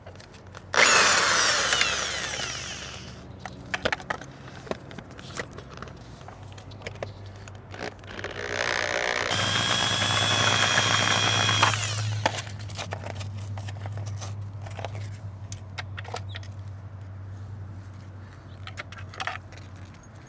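A power driver run twice on the scooter's airbox bolts: a short burst about a second in that dies away, then a longer steady whine from about nine to twelve seconds in, with small clicks of handling in between.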